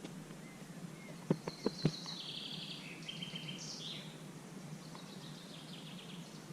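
A songbird singing short phrases of clear whistled notes that step down and up in pitch, with a fainter phrase near the end. Three sharp clicks come just before the song, over a steady low background hiss.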